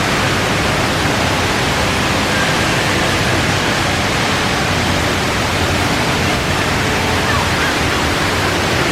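Steady rush of the world's tallest indoor waterfall, the Rain Vortex, pouring down in a continuous, even wash of water noise.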